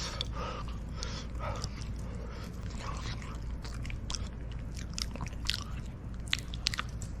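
A person chewing and eating soft roasted sweet potato close to the microphone, with wet mouth sounds and scattered sharp clicks and crackles over a steady low hum.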